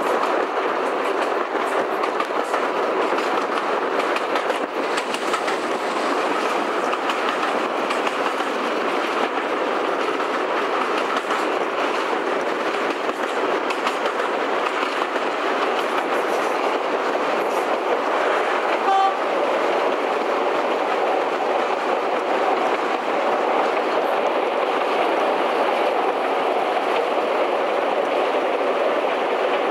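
Diesel-hauled train running at speed, a steady rush of wheel and air noise heard from an open window alongside the train, with a brief sharp sound about two-thirds of the way through.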